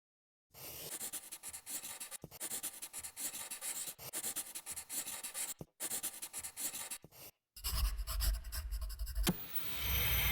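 Film studio logo sound design: a fast, scratchy, crackling texture stops briefly twice. Then a deep rumble comes in, there is a sharp hit about nine seconds in, and a swelling drone with a thin high whine follows.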